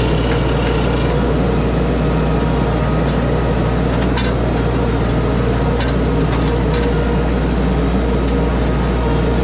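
Engine running at a steady pace with a constant low drone and no change in speed, with a few light ticks over it.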